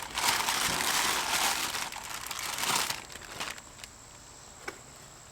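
Packaging crinkling and rustling as a throttle body is unwrapped, dying down about three seconds in; one light click near the end.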